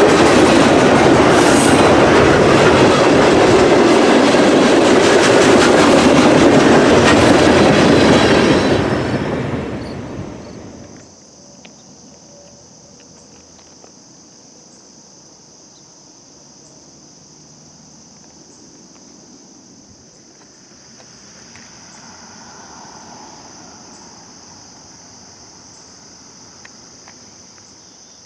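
Freight train cars rolling past with wheels clacking over the rail joints, loud for the first eight seconds and then fading away about ten seconds in. After that, a steady high chirring of crickets.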